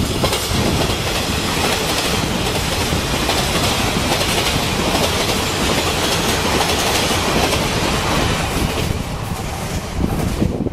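Taiwan Railways passenger train passing close by: a loud, steady rush of wheels on rails and running noise that cuts off sharply near the end as the last car goes by.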